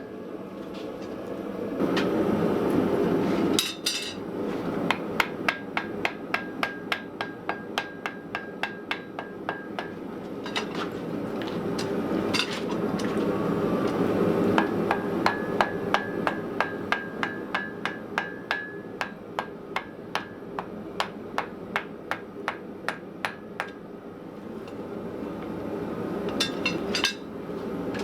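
Blacksmith's hammer striking wrought iron on an anvil in a steady rhythm of about two to three blows a second, with a ringing tone through some stretches. A steady rushing noise sits underneath, louder at times.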